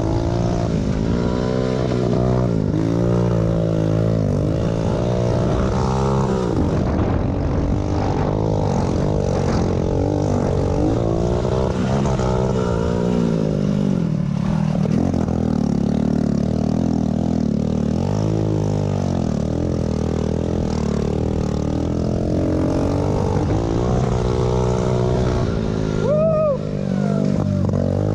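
Pit bike engines racing, their pitch rising and falling over and over as the throttle opens and closes through the race. Near the end there is a brief, sharp rise and fall in pitch.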